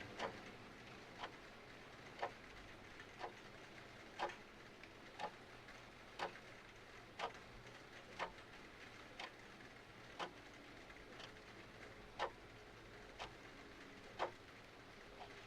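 Mechanical clock ticking about once a second, over a faint steady hiss of rain.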